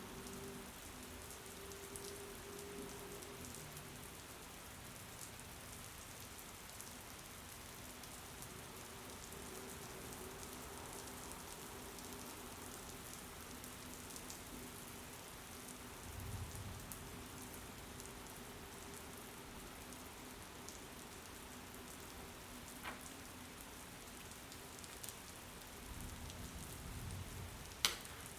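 Steady rain falling as an even hiss, with a faint steady hum underneath. Two brief low rumbles come in the second half, and a few small clicks; the sharpest and loudest click falls just before the end.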